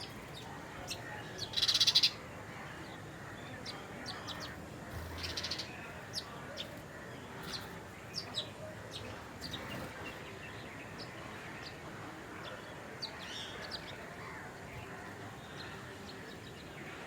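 Wild birds calling, with many short high chirps throughout. A loud call about two seconds in is the loudest sound, and a fainter one like it comes around five seconds.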